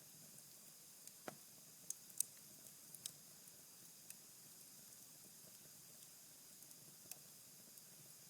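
Cherry-wood fire burning down to embers in a fireplace: a faint steady hiss with scattered sharp crackles, the loudest about two seconds in. There is one brief falling whistle about a second in.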